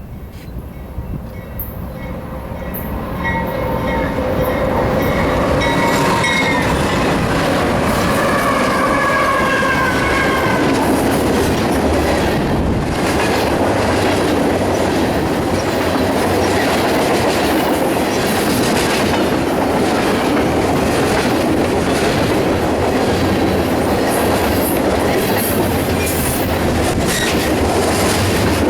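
BNSF train approaching and passing. For the first several seconds the locomotive's pitched tones drift slowly downward. The railcars then rumble past steadily, wheels clattering rhythmically over the rail joints.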